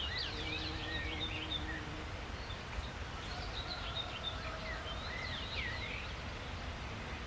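Several small birds singing, quick high chirps and whistles that glide up and down, coming in two bursts, over a steady low outdoor rumble.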